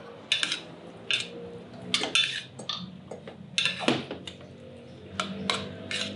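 Forks and spoons clinking and scraping on dinner plates as several people eat: irregular sharp clinks, about eight of them, with softer scrapes between.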